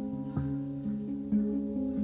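Handpan played melodically: about five struck notes in two seconds, each ringing on and overlapping the next.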